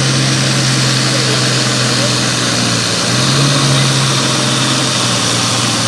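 A tractor- or truck-pull engine running loud and steady, with a strong low hum that dips briefly about three seconds in.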